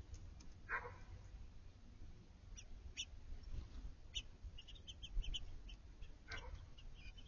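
Small backyard songbirds giving short, high chip calls, many of them from about two and a half seconds in. Two lower, longer calls come about a second in and near the end.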